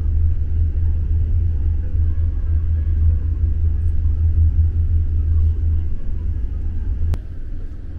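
Steady low rumble of a conventional passenger train running, heard inside the carriage. It eases about six seconds in as the train passes a station platform, and there is a single sharp click near the end.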